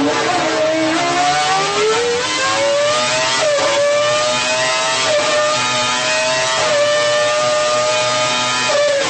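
Renault Formula 1 engine running at high revs under test. Its pitch dips briefly at the start, then climbs steadily for a few seconds and holds, with a slight step up around the middle, before falling away near the end.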